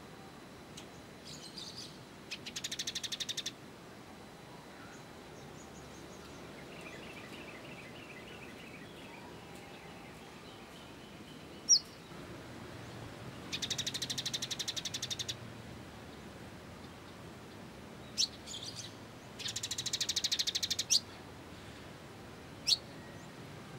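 Small songbird calling: three rapid, buzzy trills of one to two seconds each, with a few sharp single chips between them, over a faint background hiss.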